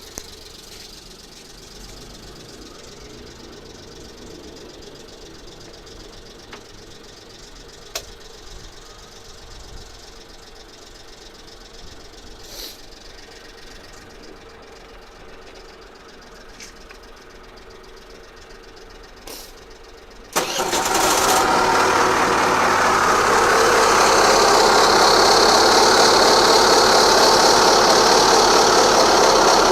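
Suzuki Let's 4 scooter's small single-cylinder four-stroke engine: a quiet, steady stretch with a few sharp clicks, then about two-thirds of the way through it becomes suddenly loud, running with a dense rattling noise. The owner reports an abnormal noise in this engine.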